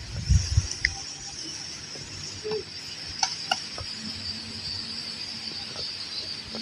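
Steady high-pitched insect chorus from the field, with a few low thumps about half a second in and scattered faint short clicks.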